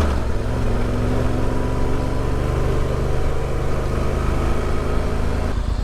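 Motorcycle engine running steadily at road speed, with wind rushing past. The engine note eases off just before the end.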